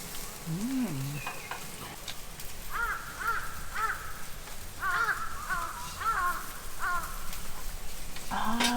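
A bird calling outdoors: about eight short, harsh arched calls in two series, the first starting about three seconds in and the second about five seconds in, over a steady hiss.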